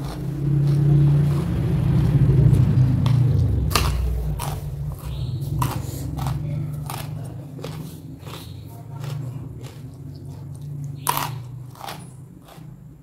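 A person chewing and crunching food close to the microphone. The chewing is heaviest in the first few seconds, then eases into quieter chewing with sharp wet mouth clicks and bites, one sharp crunch about eleven seconds in.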